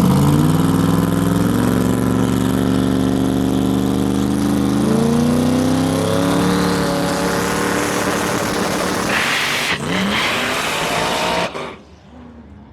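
Race car engine running hard at high revs, its pitch climbing in steps partway through. The sound drops away sharply near the end.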